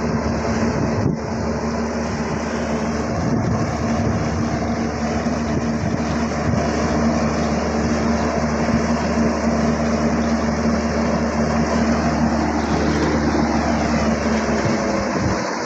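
Yacht's bow thruster running steadily under test: a constant hum with a held tone over dense churning noise, stopping near the end.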